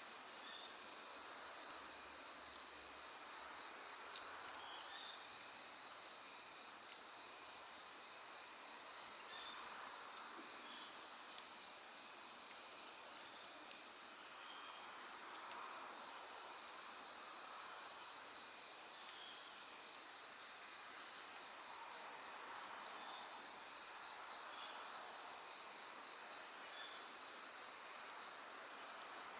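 Crickets trilling steadily in a night-time chorus, with short higher chirps every couple of seconds. A wood fire burns underneath with a soft hiss and a few faint pops.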